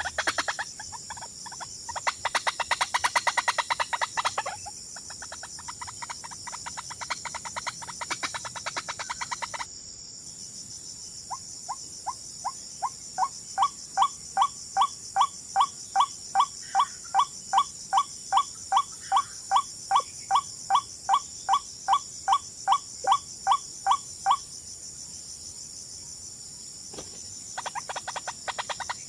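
Bird calls in jungle: a fast chattering trill for the first several seconds, then after a break a long series of identical short calls repeated evenly at nearly three a second, growing louder at first and stopping suddenly, over a steady high insect hiss.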